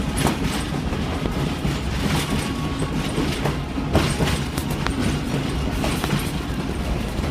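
Passenger train rolling along the track: a steady rumble with irregular clacks of the wheels over the rail joints.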